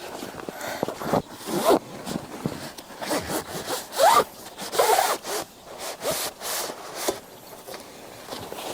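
Camping gear being handled while a fire windscreen is set up: a run of short rasping and rubbing strokes as fabric and fittings are worked, some strokes rising in pitch like a zip being pulled.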